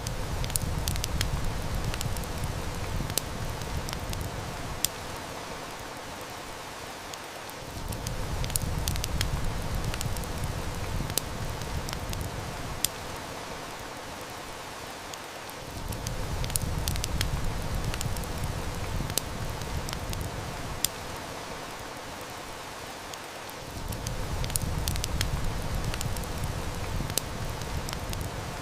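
Steady heavy rain mixed with a wood fire crackling, with sharp snaps scattered throughout, over a low rumble that fades in and out about every eight seconds.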